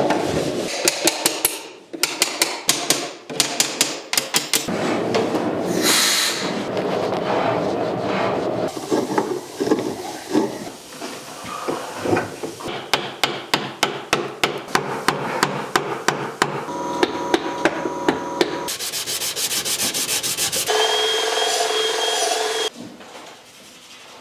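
Hand woodworking on alphorn wood: runs of quick tool strikes on wood, about four a second, alternating with rubbing and rasping of wood. Near the end a steady whine lasts about two seconds.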